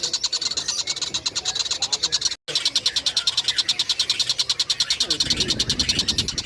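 Tengkek buto kingfisher calling in a rapid, even trill of high-pitched notes, about ten a second. The trill cuts out for a moment about two and a half seconds in, then resumes; a lower-pitched sound joins near the end.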